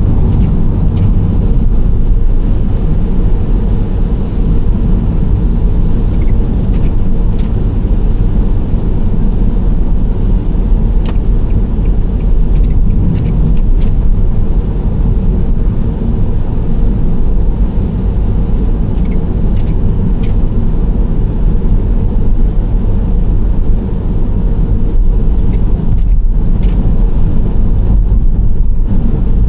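Nissan Serena C25 minivan driving along at a steady pace: a continuous low road and engine rumble, with a few faint clicks scattered through it.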